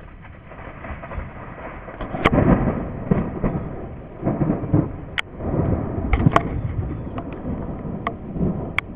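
Thunder rumbling in deep swells during a thunderstorm, loudest about two seconds in and again around six seconds, with several sharp clicks scattered through it.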